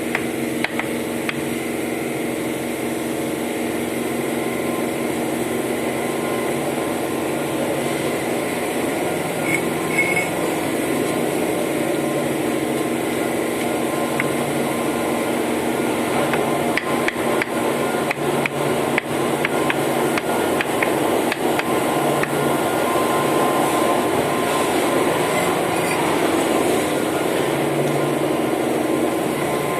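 Hammer strikes on bricks during brick oven repair: repeated sharp taps and knocks, coming thickest about halfway through, over a steady hum.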